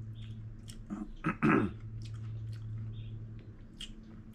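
A person chewing a mouthful of food, with small clicks of chopsticks on a bowl and one short wordless vocal sound about a second and a half in, over a steady low hum.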